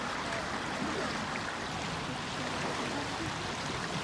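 A small river running high in spring flood, its water rushing with a steady, even sound.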